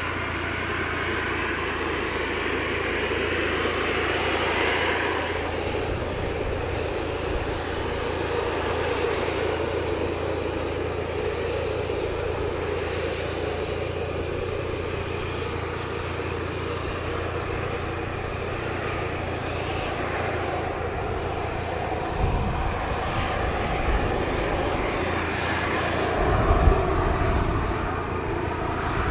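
Boeing 737-500 jet engines running steadily, with a few low thuds near the end.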